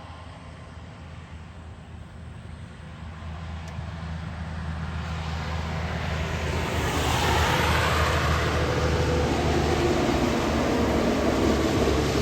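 Heavy truck's diesel engine droning as it approaches, growing louder over the first several seconds. A rising hiss of tyres on wet road joins it and becomes the loudest sound from about seven seconds in.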